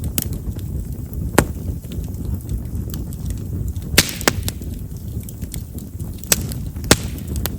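Chestnut firewood burning in an open fire, crackling with about five sharp pops and many small ticks over the low rumble of the flames. Chestnut's large vessels make it a wood prone to popping.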